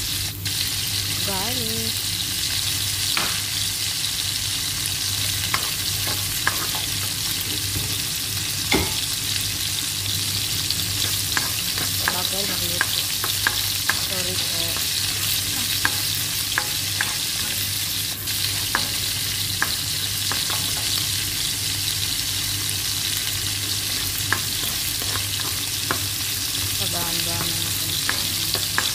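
Sliced red onion and ginger sizzling steadily in hot olive oil in a nonstick pan. A spatula stirs them, scraping and clicking against the pan now and then.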